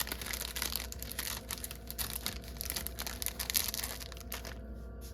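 Packaging crinkling and rustling as craft supplies are handled, with irregular crackles. It dies down near the end.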